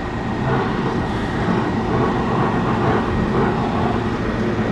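Rooftop ventilation equipment running with a steady mechanical drone and a faint steady high-pitched tone over it. The equipment is restaurant exhaust fans and an evaporative (swamp) cooler.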